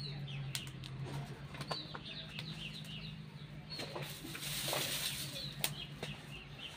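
Small birds chirping over and over in short calls, with a steady low hum underneath. A brief rustle comes about four and a half seconds in.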